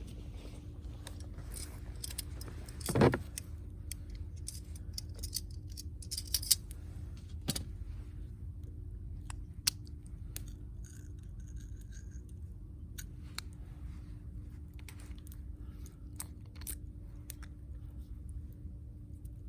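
Small clicks and metallic clinks of objects being handled, with one louder knock about three seconds in, over a steady low hum.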